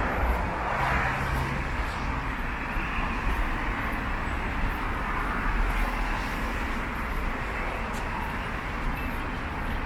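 Steady background noise of road traffic passing, with a low rumble under it.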